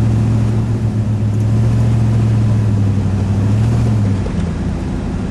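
Vehicle engine droning at steady revs under load while climbing a snowy hill, dropping off about four seconds in.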